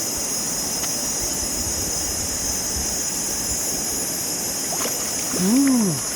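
Steady rushing noise of river water with a high, even hiss over it. Near the end, a short voice-like 'ooh' rises and falls in pitch.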